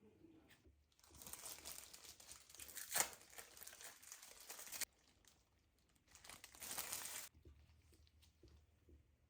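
Crinkling and rustling of something being handled, in two stretches: about four seconds starting a second in, with one sharp click in the middle, then a shorter burst of about a second later on.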